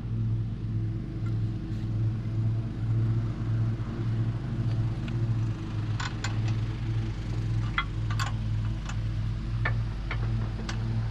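Mini skid steer's small engine running steadily with a low, evenly pulsing hum. From about halfway through, a run of sharp clicks and clanks sounds over it.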